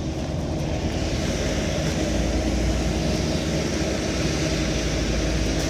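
Large truck engine running steadily with a low hum, a little louder from about two seconds in, as a tractor-trailer milk truck comes in.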